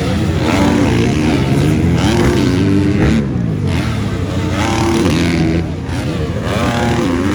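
Several MX2 motocross bikes racing, their engines revving up and dropping back over and over as the riders work the throttle and shift, the pitches overlapping.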